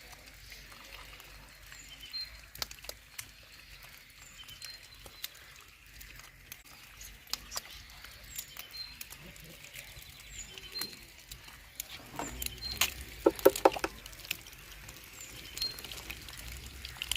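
A small bird repeats a short high chirp every second or two amid scattered clicks and rustling. About thirteen seconds in comes a short loud run of five quick pitched calls.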